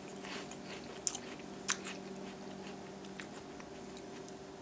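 A person chewing a mouthful of cereal in milk with the mouth closed, giving small irregular crunches about once a second, over a steady low hum.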